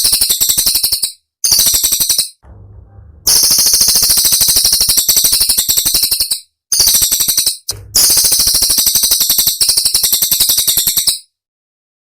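Cililin bird song: rapid strings of high-pitched notes in five bursts, with short pauses between them, stopping about eleven seconds in.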